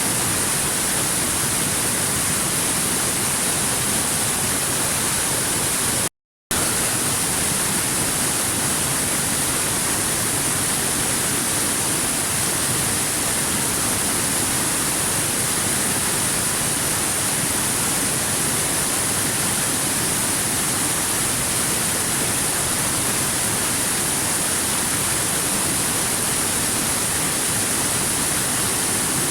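Waterfall: a steady rush of falling water, strongest in the high hiss, that cuts out completely for a split second about six seconds in.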